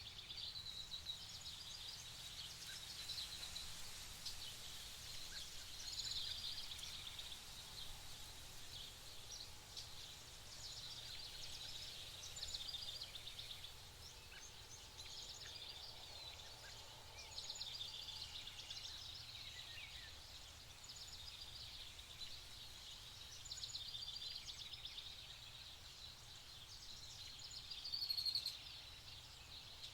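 Wild birds singing, short high-pitched song phrases coming every few seconds, over a steady low background rumble; one louder phrase near the end.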